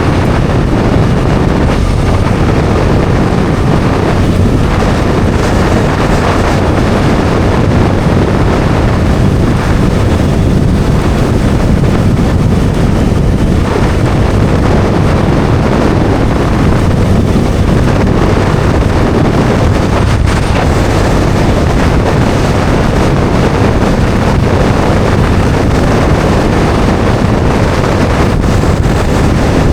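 Loud, steady wind noise on the microphone while riding a Bajaj Dominar 400 single-cylinder motorcycle at speed, with the engine running steadily underneath.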